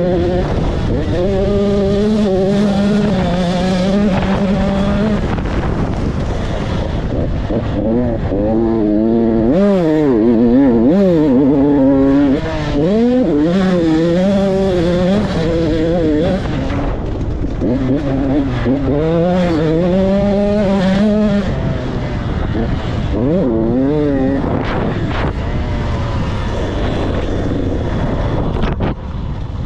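Motocross bike engine revving hard, its pitch rising and falling again and again as the rider opens and closes the throttle and shifts through the gears around the track.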